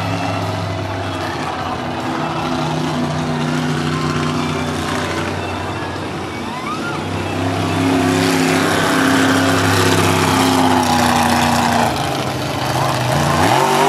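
Monster truck engine running with the throttle held, then revving up sharply near the end, during a wheelie attempt.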